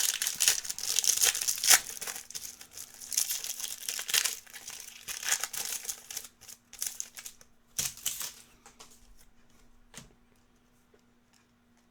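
Foil wrappers of Topps Chrome trading-card packs crinkling and tearing as a pack is ripped open, for about seven seconds. A couple of sharp taps follow as the cards are handled, and then it goes quiet.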